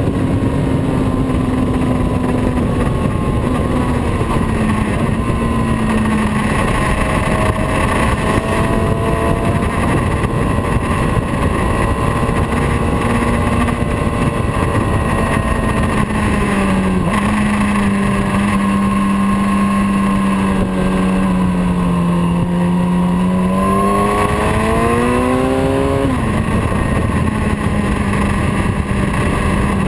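Motorcycle engine running at a steady cruise under a constant rushing noise. About twenty-four seconds in its note climbs briefly, then drops back and holds steady.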